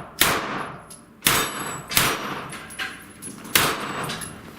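Pistol-calibre gunshots at a steel-plates shooting match: four loud shots spread unevenly over about three and a half seconds, each with a short echo, and fainter shots in between.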